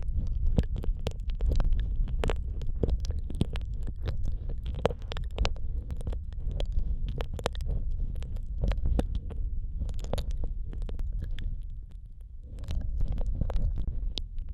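ASMR ear-eating mouth sounds made right at the microphone: many quick wet clicks and smacks over a heavy, muffled low rumble, with a short lull near the end.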